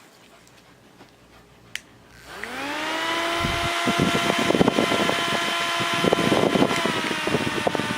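Cheap handheld portable fan: a click, then the small motor spins up with a rising whine and runs on with a steady whine and an uneven rattling buzz. This loud noise is what the owner puts down to the fan being a cheap one.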